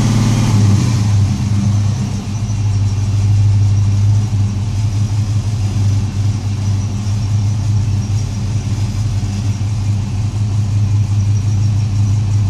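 GM LS1 5.7-litre V8 running with a misfire: the revs drop within the first second, then it idles steadily with an uneven, fluttering loudness.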